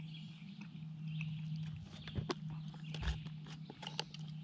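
A spoon clicks and taps a few times against a camp meal pouch while someone eats. A steady low hum runs underneath.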